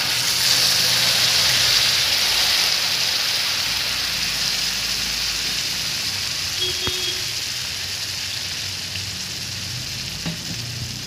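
Tomato paste hitting hot oil in a frying pan and sizzling hard, the sizzle starting suddenly as the paste goes in and slowly dying down as it spreads and cools the oil.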